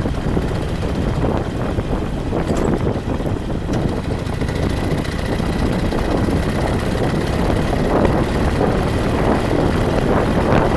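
Steady rushing wind on the microphone over the engine and road noise of a moving vehicle, with a faint thin whine joining about halfway through.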